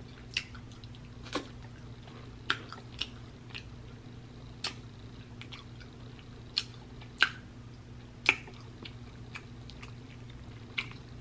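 Close-miked chewing of sticky barbecue-sauced beef rib meat: irregular wet mouth clicks and smacks, about a dozen of them, over a faint steady low hum.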